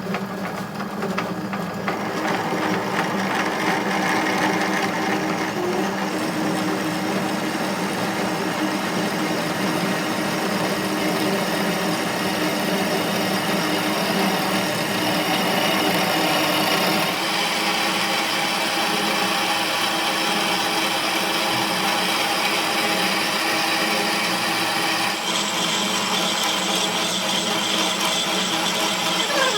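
A power tool running continuously, its sound shifting abruptly twice.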